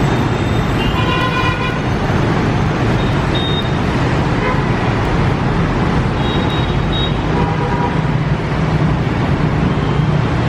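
Steady road traffic noise with vehicle horns tooting several times, the longest toot about a second in and others in the second half.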